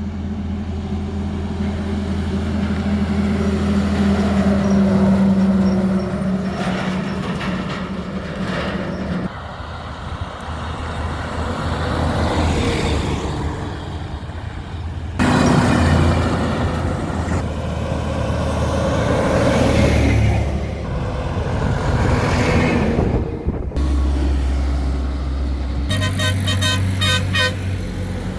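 Heavy loaded trucks running on a highway, with steady engine noise that changes abruptly several times between segments. A horn sounds in a rapid repeated pattern near the end.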